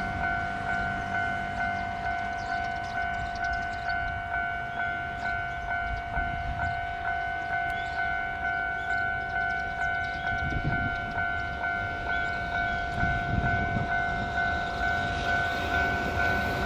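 Japanese level-crossing warning bell ringing steadily, a two-tone electronic ding struck about twice a second. Near the end the rumble of an approaching train starts to rise.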